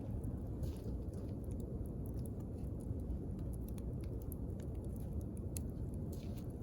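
Wood campfire crackling: irregular sharp pops and snaps of burning wood, a few of them louder, over a steady low rumble.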